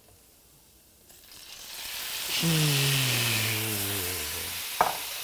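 Chopped tomatoes dropped into hot olive oil in a stainless steel skillet, starting to sizzle about a second in, growing loud and then holding a steady sizzle. A man's low drawn-out voice falls in pitch over it, and there is a short click near the end.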